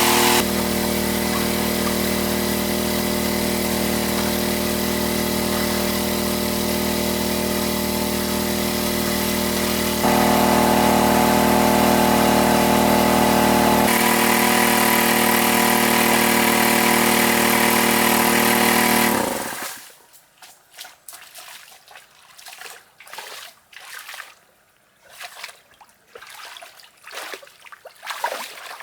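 A small engine running steadily at a constant pitch, with a couple of abrupt jumps in loudness, then shutting off about 19 seconds in. After that come scattered faint drips.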